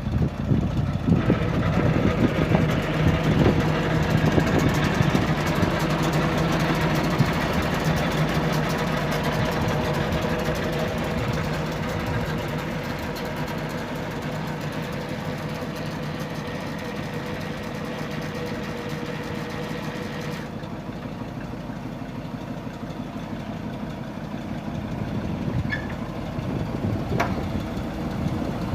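A 1969 Chevrolet C60 grain truck's engine running, louder and fuller for the first ten seconds or so, then easing down to a steadier, quieter idle.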